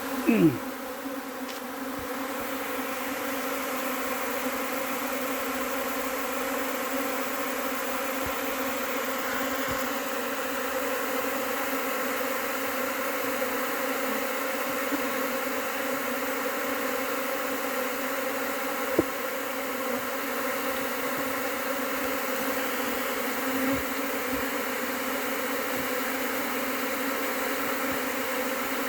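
Honey bee swarm humming steadily as it moves into a hive box, many wingbeats merging into one even drone. Near the start a louder buzz passes close, falling in pitch, and there is a single short click about 19 seconds in.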